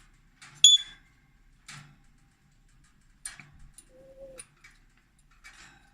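African grey parrot making small scattered clicking sounds, with one sharp, loud, high-pitched squeak about half a second in and a brief steady low whistle around four seconds in.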